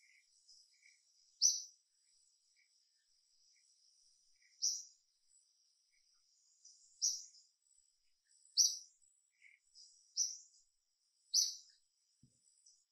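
A bird's short, high chirps, about six of them spaced one to three seconds apart, over a faint steady high-pitched insect drone.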